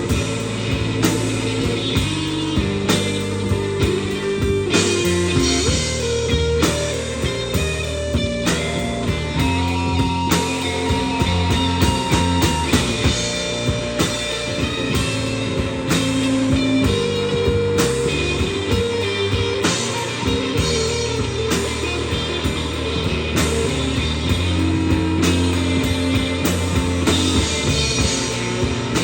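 Rock band playing an instrumental break: guitar lines over bass and a steady drum-kit beat, with no singing.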